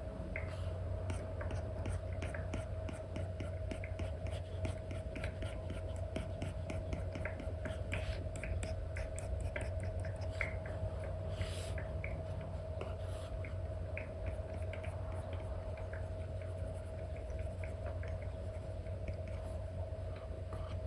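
Stylus strokes and taps from an Apple Pencil on an iPad's paper-like screen film: many short scratchy strokes and clicks in quick succession, over a steady low hum.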